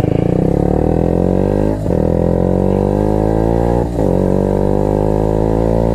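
Small motorcycle engine accelerating hard through the gears: the revs climb steadily, dip at an upshift about two seconds in and again about four seconds in, then climb once more.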